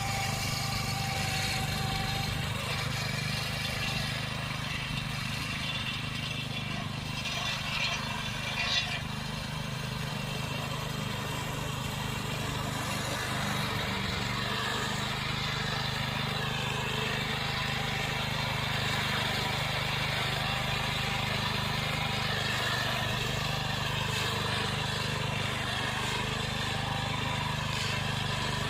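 Small engine of a repowered David Bradley walking tractor running steadily under way, with a brief louder blip about eight seconds in.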